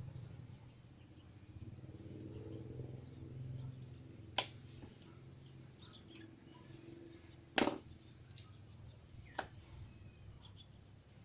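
Three sharp clicks amid quiet handling noise, the second and loudest about halfway through, over a faint low hum.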